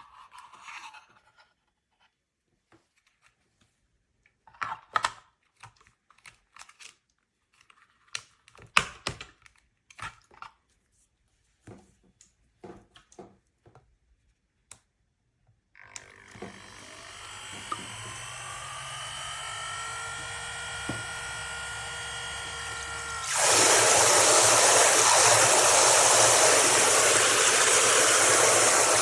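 Handling clicks and knocks, then, about halfway through, a portable camping shower's small battery pump starts up with a whine that rises slightly in pitch. A few seconds before the end, a loud steady rush of water spraying from the shower head joins it.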